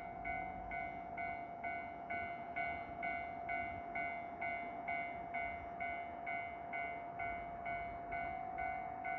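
Railway level-crossing warning bell ringing steadily at about two strokes a second, with a steady tone beneath, signalling that a train is approaching.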